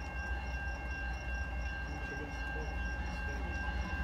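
Low, steady rumble of an approaching freight train still some distance off, with steady high-pitched tones and a faster high tone pulsing about four times a second over it.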